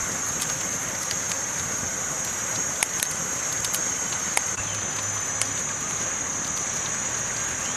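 Campfire burning with a soft crackle and several sharp pops, over a steady high-pitched hiss.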